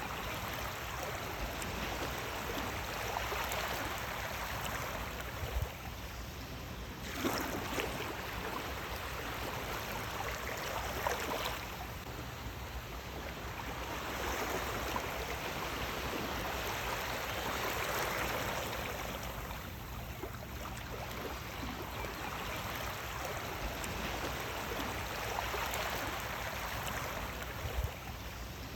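Sea waves washing in and out, the water noise swelling and easing every few seconds, with a few brief sharper splashes.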